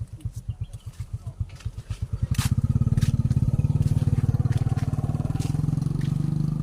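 Motorcycle engine running at low revs close by, its even firing pulses growing louder about two seconds in and then holding steady.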